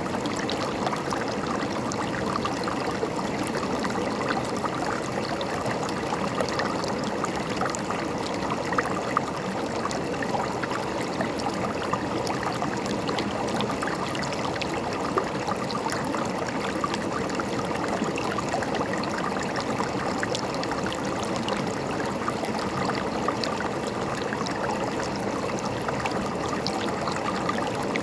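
River water running over rocks, a steady rushing burble with small splashes and trickles throughout.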